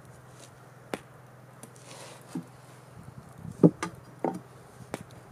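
Scattered knocks and clacks of wooden pieces being handled and set down, loudest in a short cluster a little past the middle, over a steady low hum.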